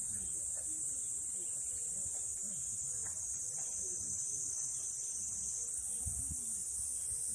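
A steady, high-pitched chorus of insects shrilling without a break, with faint distant voices underneath.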